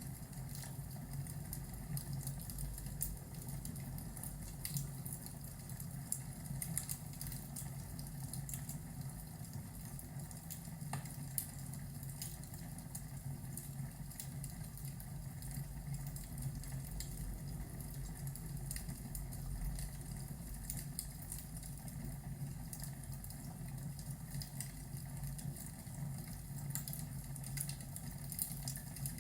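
Fireplace ambience: a log fire crackling, with frequent small sharp pops, over a steady low rumble.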